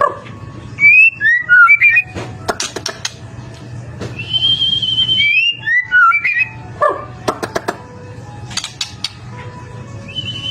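White-rumped shama singing loud whistled phrases of quick gliding, falling notes and long held whistles, mixed with sharp ticking clicks. A faint steady low hum runs underneath.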